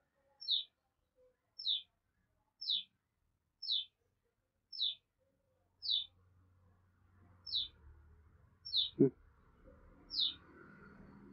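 A bird repeating a short, high chirp about once a second, each call falling in pitch. A single click about nine seconds in, with faint rustling of paper in the second half.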